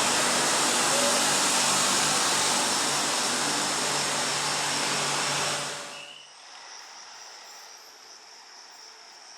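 A train running past on the rails, a loud steady rush of wheel and rail noise that stops abruptly about six seconds in, leaving a much fainter steady background.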